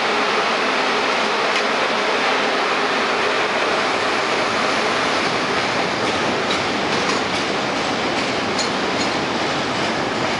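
Eight-car CTA Blue Line train of Budd 2200 and 2600 series 'L' cars pulling out of the station and running past: a steady noise of wheels on the rails, with a run of sharp wheel clicks in the second half as the rear cars go by.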